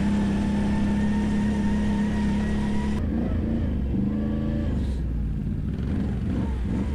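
ATV engine under hard throttle, its note slowly climbing. About three seconds in the sound changes suddenly, and the note wavers up and down before falling lower.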